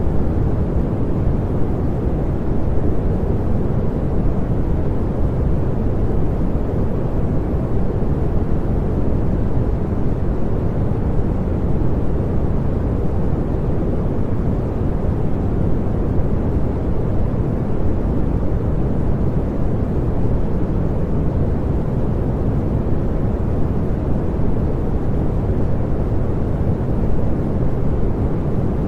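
Continuous synthetic pink noise: a steady, even hiss weighted toward the low end, with no change in level or character.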